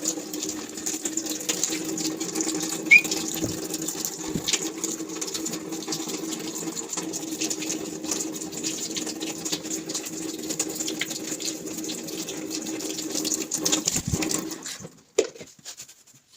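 Water running and splashing as a parrot plays in it, with a low steady hum beneath and many small splashes and taps. There is one short high chirp about 3 s in, and the running water stops suddenly near the end.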